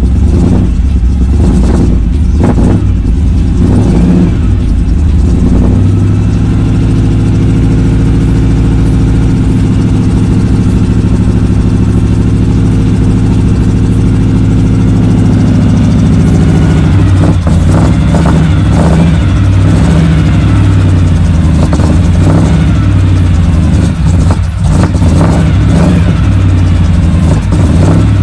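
1984 Chevrolet K5 Blazer's big-block V8 running just after a cold start, revved a few times in the first few seconds, then holding a steady fast idle. About 17 seconds in it drops to a lower, uneven idle.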